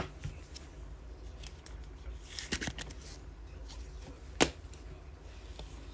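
Trading cards being handled and flipped through from a pack: faint rustling with a few short, sharp clicks, the loudest about four and a half seconds in.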